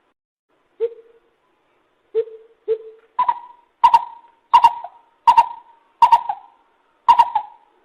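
Lesser coucal calling: three low hollow notes, then a run of about six higher, sharper notes at an even pace, roughly one every 0.7 s.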